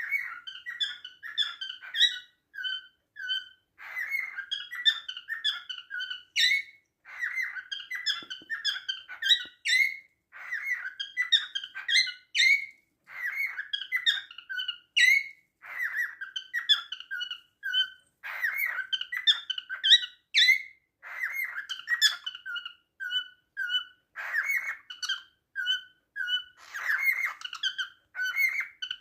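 Male cockatiel singing its courtship song to a female: phrases of short whistled chirps and notes, repeated every two to three seconds with brief pauses between them.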